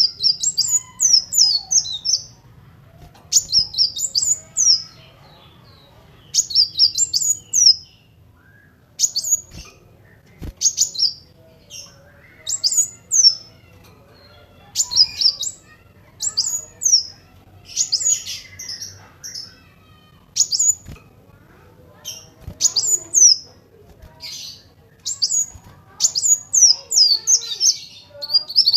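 Kolibri wulung sunbird singing short, rapid bursts of high, thin, sliding chirps, one phrase every second or two.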